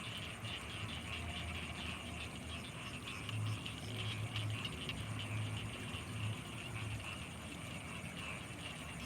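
Night chorus of frogs and insects: a dense, fast-pulsing trill with a steady high-pitched insect tone over it, and a run of low croaks from about three to seven seconds in.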